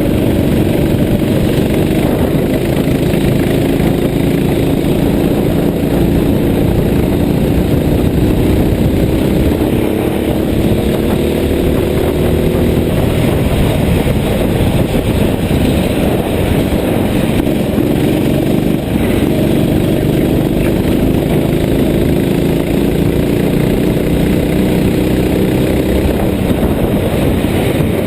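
A motor vehicle's engine running under a steady wash of road noise, its pitch climbing slowly twice as it gains speed.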